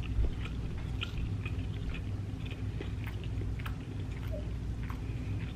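Close-miked chewing of a mouthful of soft rice and salmon, with many small, scattered wet mouth clicks over a low, steady background hum.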